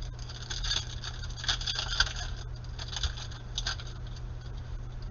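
Panini Prizm basketball cards being flipped and slid through the hands: a run of light, uneven clicks and swishes over a steady low hum.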